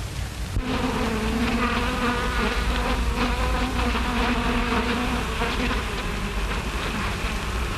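Bees buzzing: a steady, slightly wavering drone that starts about half a second in and is strongest for the next few seconds before thinning out, over a low soundtrack hum and hiss.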